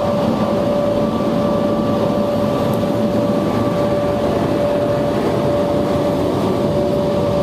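Touch-free car wash air dryer blowers running, a steady rush of air with a constant whine, heard from inside the car.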